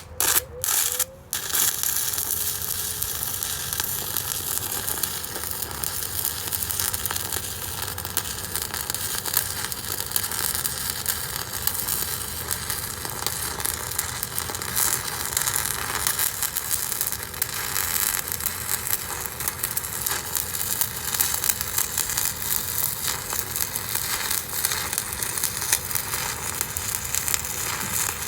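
Electric arc welding: the arc catches with a few short starts in the first second or so, then runs as a steady crackling sizzle while a bead is laid along a ground-out crack in a steel excavator thumb bracket.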